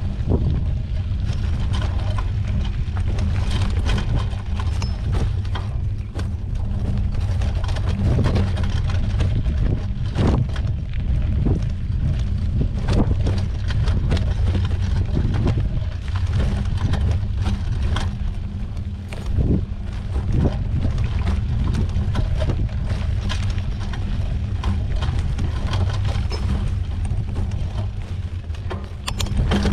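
A mountain bike ridden over a rough dirt trail: a steady low rumble of wind and ride vibration on the microphone, broken by frequent clicks and rattles as the bike jolts over bumps.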